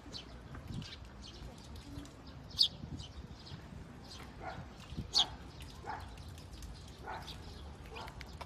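Birds chirping in short, sharp high calls, two of them louder about two and a half and five seconds in, with fainter, lower short calls in between.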